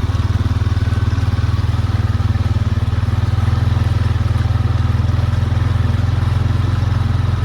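A vehicle engine running steadily at low revs with an even low throb and no change in speed.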